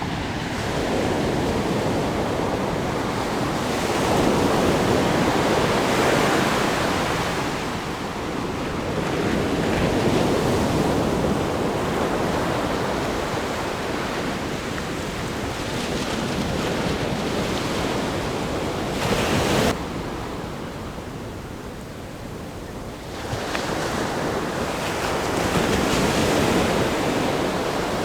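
Ocean surf breaking against a rock groin, the wash of noise swelling and easing every few seconds, with a brief sharp hiss about two-thirds of the way through.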